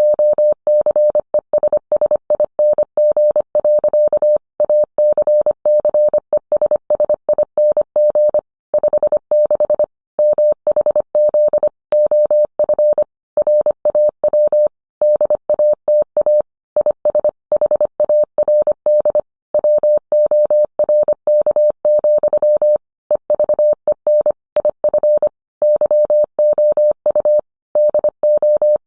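Morse code sent as a steady mid-pitched beep, keyed on and off in short and long elements with short pauses between characters and words, at an even machine-like pace.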